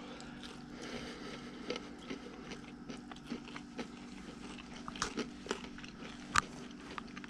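A person biting into and chewing a piece of fried bullhead catfish: a run of small crunches and wet mouth clicks, with one sharper crunch about six seconds in.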